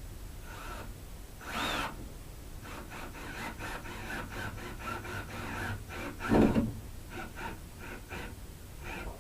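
Screws being started by hand into a wooden 2x4: a run of short scraping, rubbing strokes of metal in wood, with two louder knocks, one about a second and a half in and a louder one just past six seconds.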